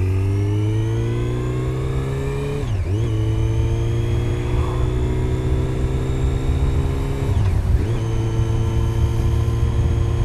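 Yamaha FZ8's inline-four engine with an Akrapovic slip-on exhaust pulling the bike up through the gears. The pitch rises, drops briefly at an upshift about three seconds in, climbs again, and drops at a second upshift near eight seconds before holding steady.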